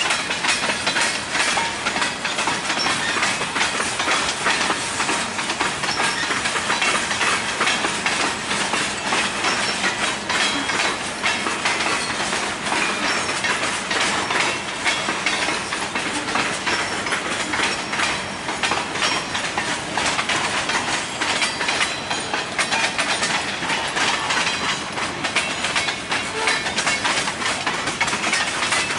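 Freight train cars (tank cars and open hoppers) rolling past, their steel wheels making a steady rapid clickety-clack and clatter over the rail joints.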